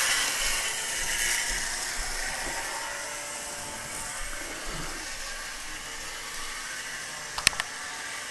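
Model electric train running along its track, a steady rushing hum that slowly fades, with a couple of sharp clicks about seven and a half seconds in.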